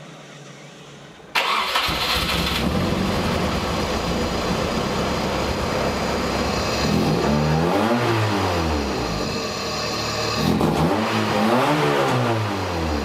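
Nissan KA24DE 2.4-litre inline-four in a 240SX starts suddenly about a second in and settles into a steady run, then is revved up and back down twice. This is its first start on a ROM Tuned ECU, 550cc injectors and a Z32 mass airflow sensor, and it catches and runs.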